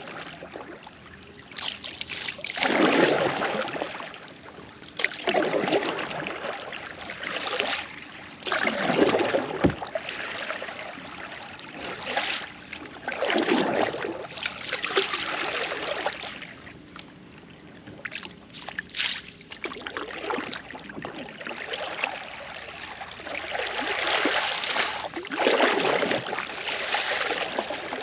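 Kayak paddle strokes: the blade dipping and pulling through river water in a repeated splashing rhythm, one stroke every couple of seconds, with water trickling off the blade between strokes.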